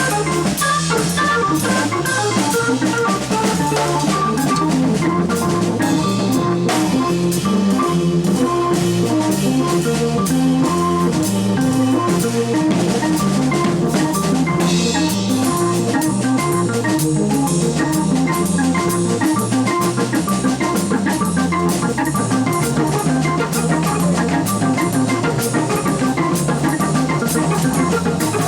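Live jazz from an organ trio: organ holding chords and a low bass line while a drum kit keeps up busy cymbal and snare playing, continuous and loud.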